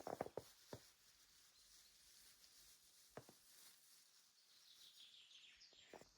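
Near silence outdoors in snow, broken by a few soft crunching steps in the first second, one more about three seconds in and another near the end.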